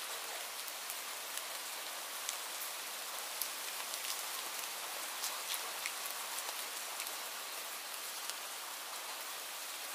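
Steady rain falling on garden foliage: an even hiss with many scattered, sharp taps of individual drops.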